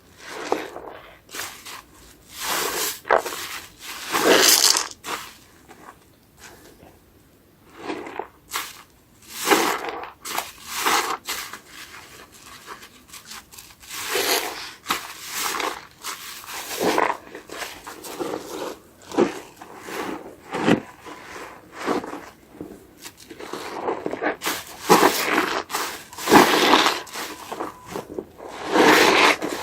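A soapy, foam-filled sponge being squeezed and rubbed, giving irregular wet strokes with a crackle of foam, one every second or so, with short pauses between bursts.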